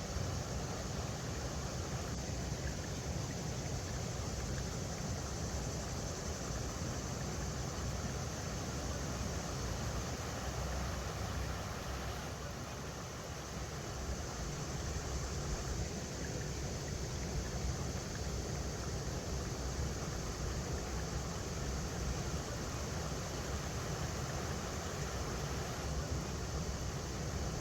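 River water rushing steadily over rocks, an even wash of noise with a deep rumble underneath.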